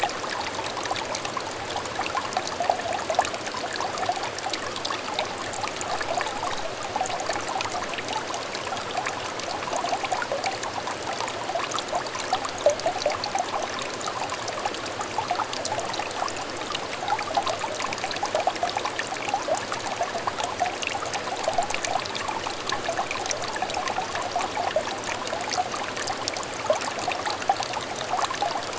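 Small clear stream trickling steadily, water babbling and splashing over stones with a constant light gurgle.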